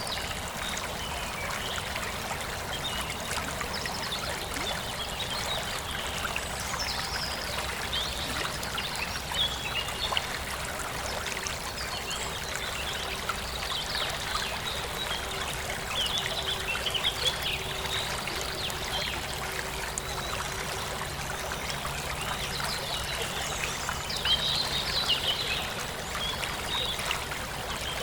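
Forest stream flowing steadily, with birds chirping on and off above it, most clearly around a third of the way in, in the middle, and near the end.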